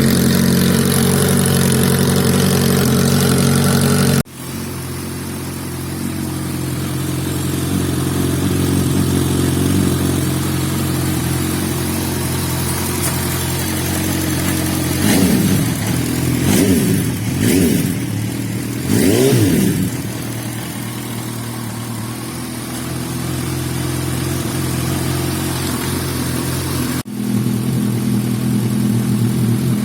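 Suzuki Bandit 1250's inline-four engine idling through different exhausts, the note changing abruptly at two cuts. Three quick throttle blips rev it up and back down near the middle.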